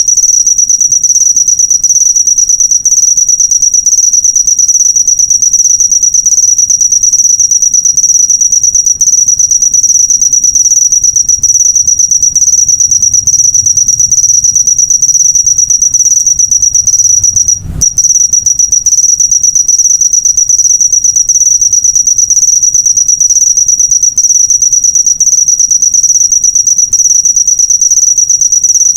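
A cricket chirping continuously in a loud, high, rapidly pulsing trill. It drops out for an instant about eighteen seconds in, with a faint low thump, then carries on.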